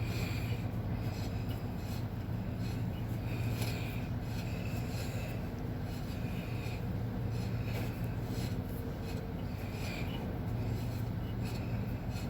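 5/16-18 UNC hand tap cutting new threads in an oversized metal hole: repeated short scraping strokes of steel on steel, about one a second, over a steady low hum.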